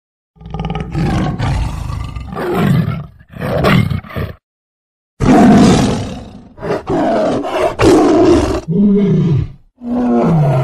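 Tiger roaring and growling in a run of separate loud calls, the loudest about halfway through; the last two slide down in pitch.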